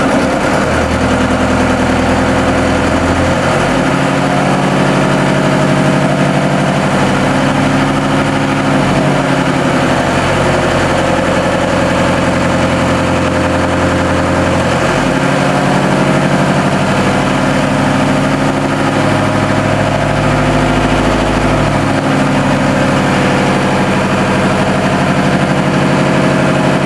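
Newly installed TDME-490 58 hp marine diesel engine, run in for under an hour, picking up revs at the very start and then running steadily at raised revs above 1000 rpm. It is heard from a few metres outside the boat, with the engine compartment floor hatches closed.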